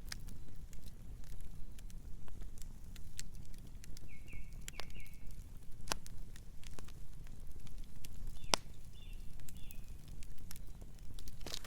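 Campfire burning: a steady low rumble with scattered crackles and pops of burning wood, one sharper pop about eight and a half seconds in. Short high chirps come in two groups of three, about four and about nine seconds in.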